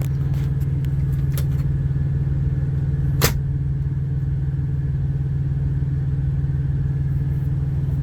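Steady low drone of a semi truck's auxiliary power unit running while the main engine is off, with one sharp click about three seconds in.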